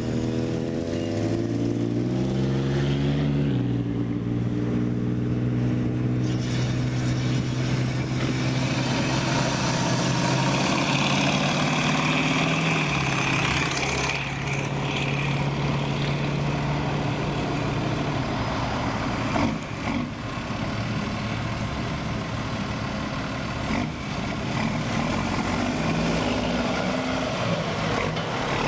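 Car engines running as cars drive slowly past one after another. An engine's pitch drops in steps in the first few seconds, then a steady deep engine note holds until about halfway through.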